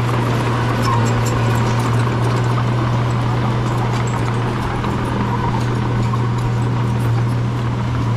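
Bulldozer's diesel engine running at a steady, even pitch with a strong low drone and faint scattered clicks.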